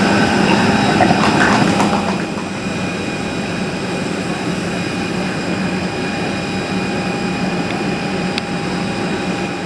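Steady drone of a jet airliner running nearby: an even rushing noise with a constant high whine over it. Faint voices are heard in the first two seconds.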